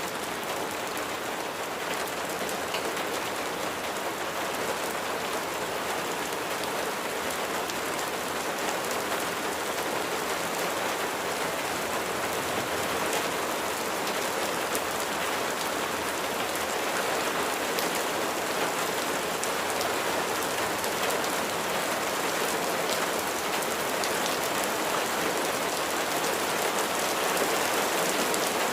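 Steady rain falling on a surface: an even hiss dotted with a dense patter of individual drops.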